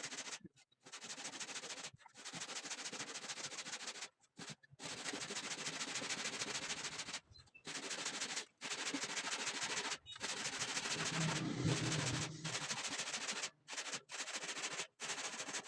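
An electric saw cutting wood, a rapid buzzing chatter that stops and starts abruptly several times.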